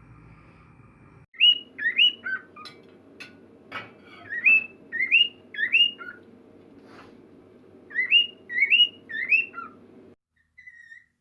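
Cockatiel whistling its song: three runs of short rising whistled notes, each run of about three notes, with a few sharp clicks in between.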